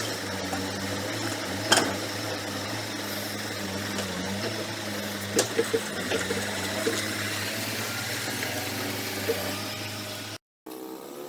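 Diesel engine of heavy earthmoving machinery running steadily, with a sharp metallic clank about two seconds in and a few quick knocks around the middle. The sound drops out for a moment near the end.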